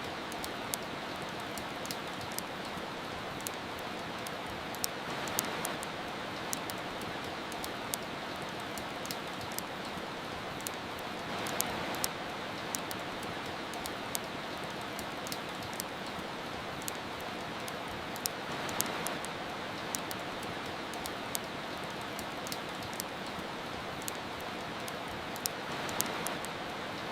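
Steady soft rain hiss with frequent sharp crackles and pops from a wood fire. The rain swells gently every six or seven seconds.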